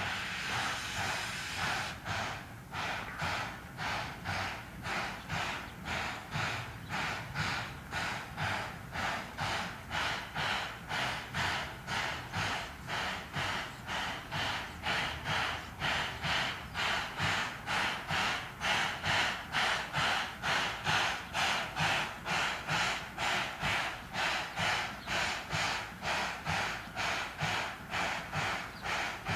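C11 steam locomotive hissing steam, then puffing in a steady, even rhythm of about two puffs a second.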